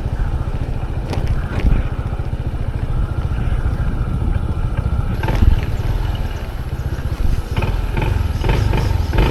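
Motorcycle running while riding, a loud steady low rumble with fast pulsing, cutting off suddenly at the end.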